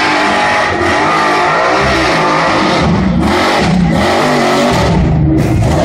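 Truck engine revving hard, its pitch rising and falling several times, under a steady loud rushing noise.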